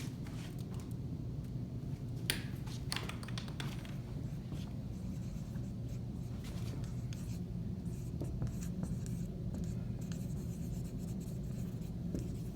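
Someone writing by hand: short scratchy strokes that come in bursts, over a steady low hum of the room.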